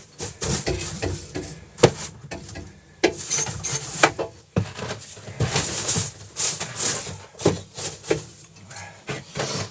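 Irregular knocks, scrapes and rubbing on a boat deck as it is cleared of snow and ice.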